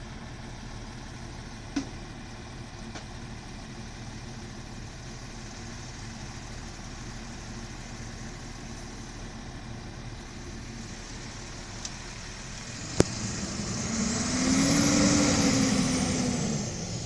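Recycling truck's engine idling steadily, with a few light clicks and one sharp knock. In the last few seconds the engine revs up and back down with a whine that rises and then falls in pitch.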